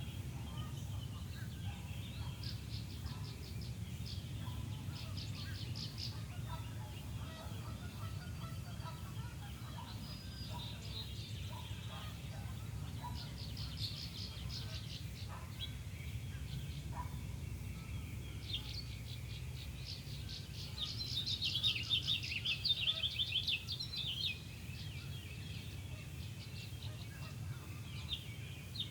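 Songbirds singing in short rapid trills, phrase after phrase, the loudest and busiest burst coming about three-quarters of the way through, over a steady low rumble.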